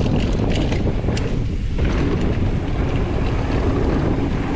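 Wind rushing over the microphone as a mountain bike rolls fast down a dirt flow trail, with tyre noise and scattered short clicks and rattles from the bike over bumps.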